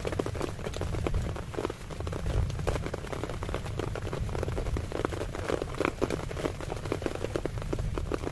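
Heavy rain drumming on tent fabric: a dense, irregular patter of drops striking the taut nylon.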